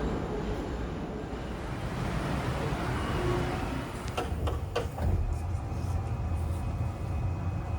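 Train running: a steady low rumble with a few sharp clicks about four seconds in, followed by faint steady tones.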